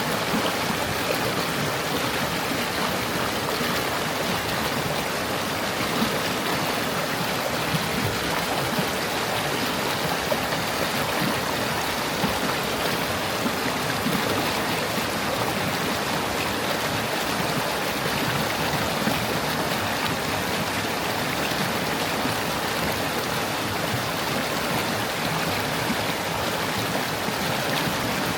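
Small stream babbling and flowing over stones, a steady even rush of water with small gurgles.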